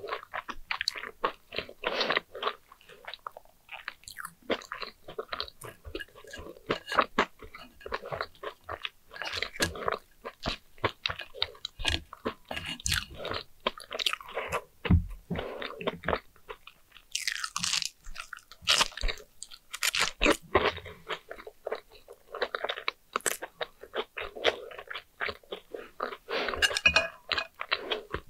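A person chewing sugar-coated fried sweet potato slices close to the microphone, with many sharp cracks between quieter chewing.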